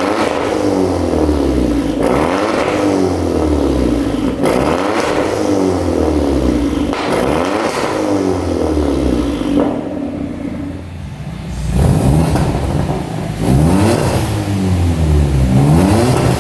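Hyundai Elantra's turbocharged 1.6-litre four-cylinder revved repeatedly through a custom titanium exhaust, the pitch climbing and falling every second or two. About ten seconds in it drops to a lower, steadier note, then revs up again.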